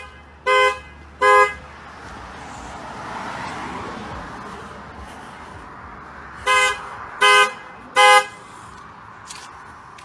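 A vehicle horn sounding in two bursts of three short honks, one near the start and one about six seconds later, over steady road traffic noise that swells briefly in between.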